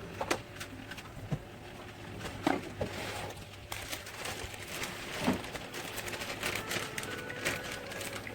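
Kitchen utensils clicking and knocking: scattered light taps, with a couple of louder knocks, over a faint steady hum.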